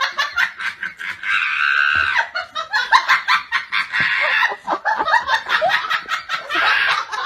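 High-pitched laughter in quick, repeated bursts.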